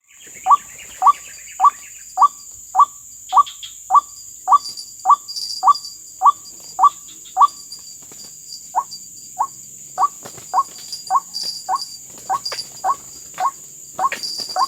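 A bird calling over and over, one short rising note about twice a second, with a brief pause midway, over a steady high drone of crickets.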